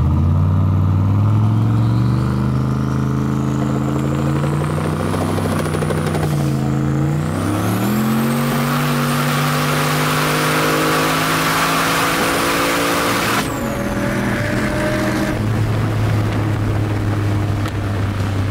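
Turbocharged 5.3 L LM7 V8 of a 1941 Chevrolet Master Deluxe under full throttle, heard from inside the cabin. The engine note climbs, dips briefly at an upshift of the 4L80E automatic about 7 s in, then climbs again with a loud rushing hiss and a high whistle rising with it. About 13 s in the throttle closes: the hiss cuts off suddenly and the engine drops to a low, steady run.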